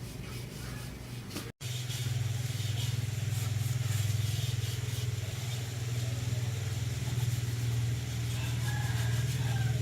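An engine running steadily at a constant speed. It breaks off for an instant about a second and a half in, then carries on louder.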